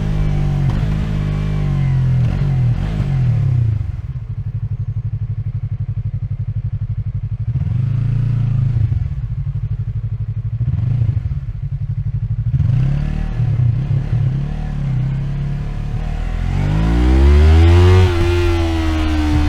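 Yamaha MT-03's parallel-twin engine, recorded close on the bike: revs fall away and settle to a steady idle, a few short throttle blips follow, then the revs rise strongly near the end.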